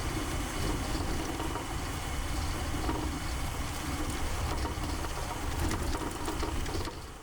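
A vehicle running, a steady low engine and road rumble with a hiss of noise over it, fading out near the end.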